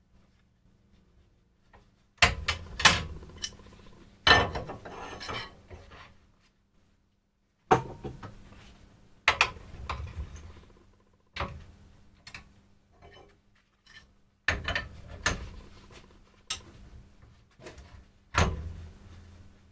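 Hand tools knocking and clattering against wood at a workbench: sharp, irregular knocks in small clusters, some with a brief ringing tail, and pauses of a few seconds between them.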